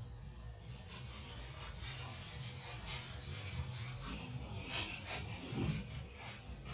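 Rough scraping and rubbing with scattered light clicks, over a low steady rumble.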